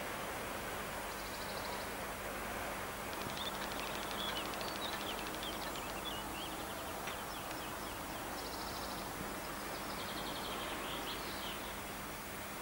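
Small birds chirping and giving short, fast trills several times, over a steady hiss and a faint low hum.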